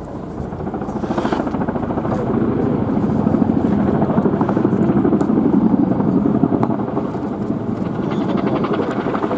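RAF Boeing Chinook HC.2/4 helicopter's tandem rotors beating in a fast, steady throb, growing louder over the first three seconds and then holding.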